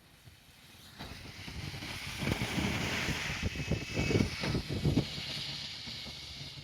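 A train passing close by. The noise builds from about a second in, with a quick run of low knocks at its loudest, then eases off.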